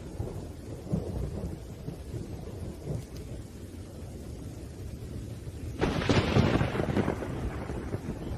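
Thunderstorm: low thunder rumbling over steady rain, with a sudden loud thunderclap about six seconds in that dies away over a second or two.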